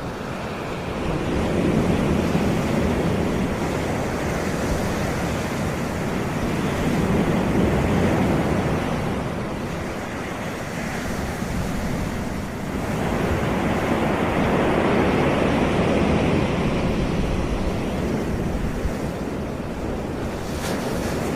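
Sea waves breaking and washing up a Caribbean beach: continuous surf that swells and eases every several seconds.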